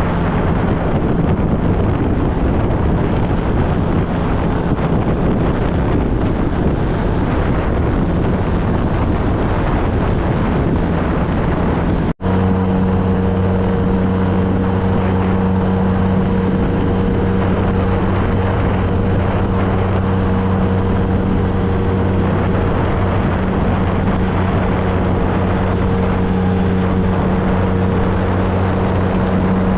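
Wind rush and the steady running of a 2013 Triumph Trophy SE's three-cylinder engine while riding at a constant speed. After a brief dropout about twelve seconds in, the engine's steady hum stands out more clearly over the wind.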